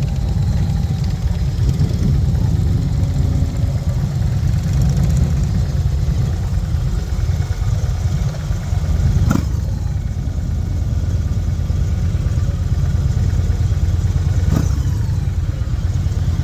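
Motorcycle engines running as the group ride pulls away, a steady low rumble, with two sharp clicks about nine and fourteen seconds in.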